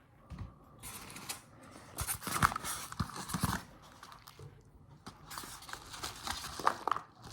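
Irregular rustling, crinkling and clicking of small items and packaging being handled and rummaged through, loudest from about two to three and a half seconds in and again near the end.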